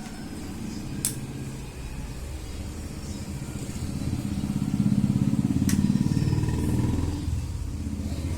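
A motor engine's low rumble swells to its loudest a little past the middle and then eases off. Two sharp clicks come about a second in and again near the loudest point.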